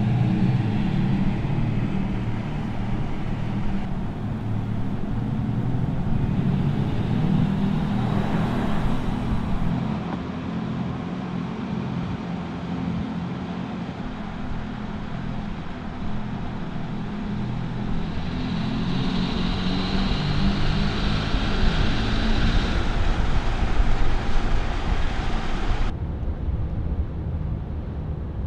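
Mercedes-AMG EQS 53 electric car driving: a steady low hum over road noise. The sound changes abruptly several times, as between separate takes.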